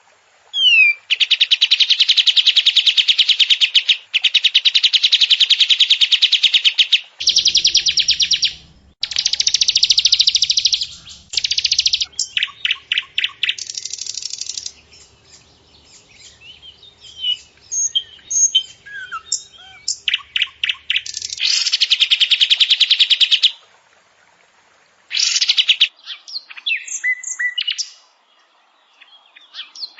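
A masteran tutoring tape of songbird song: long, very rapid high trills a few seconds each, then shorter whistled notes and chattering phrases, with abrupt cuts between recordings. The mix draws on species such as the cucak jenggot (grey-cheeked bulbul), ciblek (bar-winged prinia), canary and sikatan londo (grey-headed canary-flycatcher).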